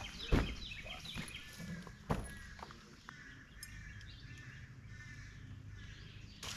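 Songbirds chirping repeatedly, with a sharp knock about a third of a second in and another just after two seconds.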